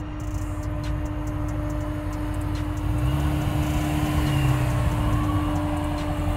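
Chevrolet Corvette's supercharged 6.2-litre V8 running as the car drives up and pulls to a stop, a steady low rumble with a deeper engine note swelling about three seconds in.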